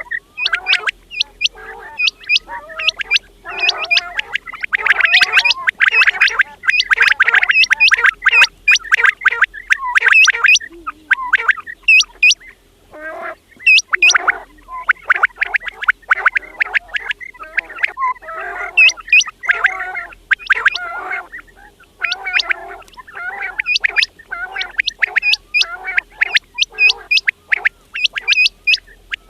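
Quails calling: a dense run of short, sharp calls, several a second and overlapping one another, with a brief lull about halfway through.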